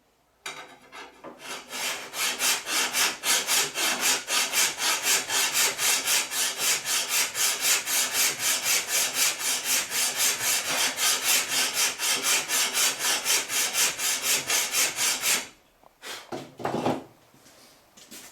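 Hand file being pushed back and forth across the steel of a katana blade made from truck leaf spring, cutting in the bevels, in a steady rhythm of about three strokes a second. The filing stops suddenly about 15 seconds in, followed by a couple of short knocks.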